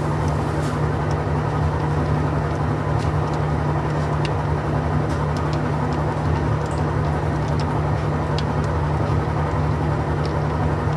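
A steady low machine hum, unchanging in pitch and level, with a few faint light clicks over it.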